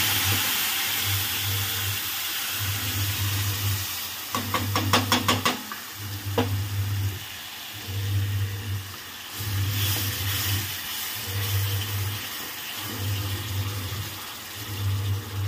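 Yogurt-and-spice masala sizzling as it hits hot tempering oil in a steel kadai, loudest at first and easing off. There is a quick run of sharp clicks about four seconds in, and a low hum pulses on and off about every second and a half.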